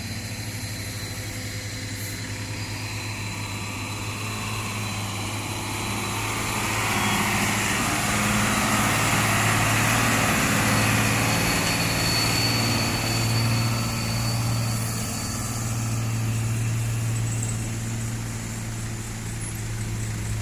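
Heavy diesel truck with trailer, loaded with sugarcane, grinding up the incline and passing by. It grows louder toward the middle and then fades, over a steady low engine drone.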